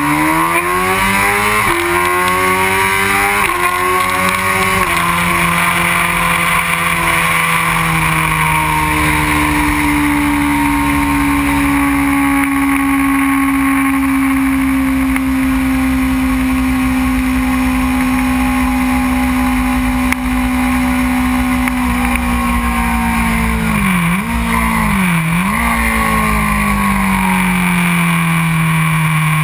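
Honda CBR600 F4i sport bike's inline-four engine at high revs on track, heard over strong wind rush. It climbs through three quick upshifts in the first few seconds, holds a steady high-rpm note for a long stretch, then dips and picks up twice as it shifts down and drops to a lower, falling note near the end.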